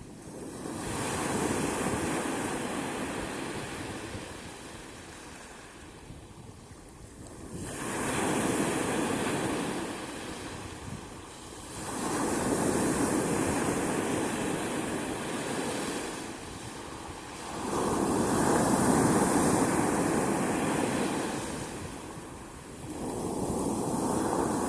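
Sea surf, with waves breaking and washing in. It comes in five swells, each rising and then fading every four to six seconds.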